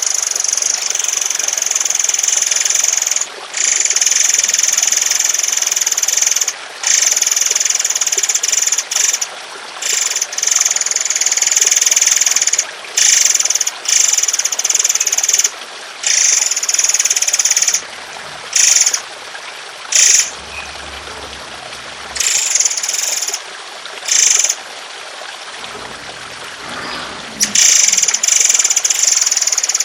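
A songbird giving harsh, rapid, high-pitched volleys in repeated bursts with short breaks: long bursts at first, shorter ones through the middle, and a long volley again near the end. Under it runs a steady trickle of flowing water.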